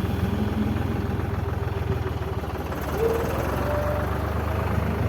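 Tractor diesel engine running steadily with a fast, even firing pulse. About three seconds in, two short higher tones sound over it, the first rising briefly.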